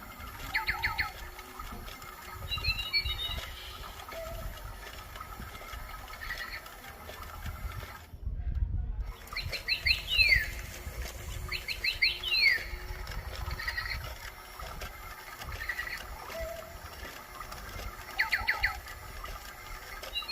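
A bird calling in short runs of four or five quick, evenly spaced notes, repeated every few seconds, some runs ending in a swooping note, with softer single chirps between; the call has the thin, electronic quality of a toy on a run-down battery.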